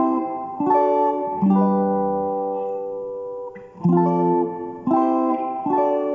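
Guitar playing a seben chord progression (G, F, C, D): about six plucked chords in turn, each left to ring and fade before the next.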